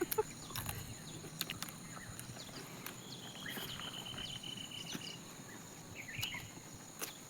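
Outdoor insect chorus: steady high-pitched chirring throughout, with a rapid pulsed trill starting about three seconds in and lasting about two seconds. Scattered small clicks and taps sit over it.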